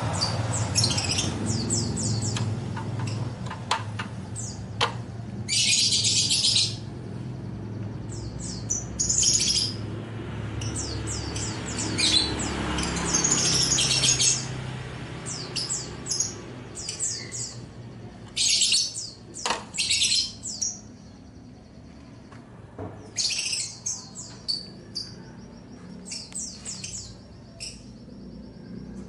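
Small caged songbirds chirping and twittering in short repeated bursts, with a few sharp clicks mixed in.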